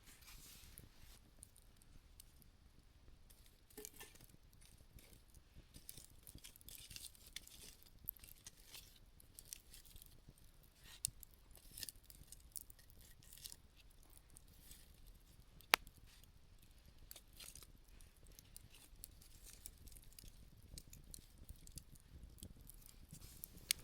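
Campfire burning down to embers, crackling faintly with scattered small pops and one sharp snap about two-thirds of the way through.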